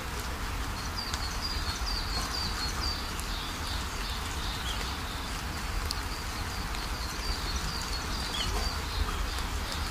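Small birds chirping in quick runs of short, high calls, about a second in and again near the end, over a steady low rumble and hiss of wind and surf.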